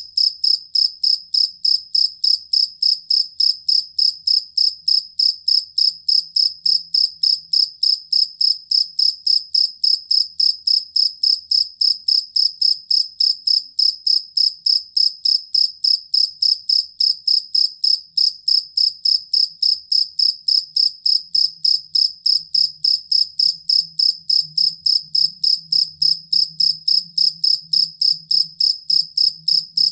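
A field cricket (jangkrik kalung, the two-spotted cricket) chirping: a high, even chirp repeated steadily about three to four times a second.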